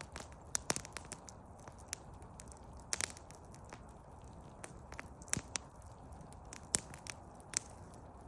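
Campfire crackling: burning wood snaps and pops at irregular moments, the sharpest snaps about three seconds in and again near the end, over a steady low hiss.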